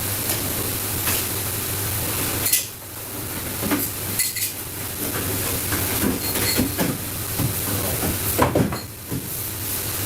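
Dishes and utensils clattering in scattered clicks and knocks, with one sharper hit about two and a half seconds in, over a steady hiss and low hum of kitchen equipment.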